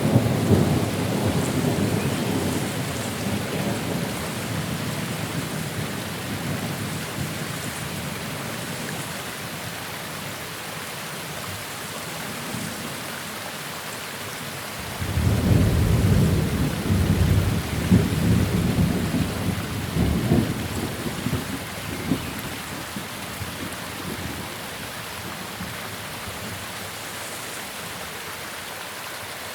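Steady rain with two rolls of thunder: one dying away over the first few seconds, and a second that breaks in suddenly about halfway through and rumbles on for several seconds before fading.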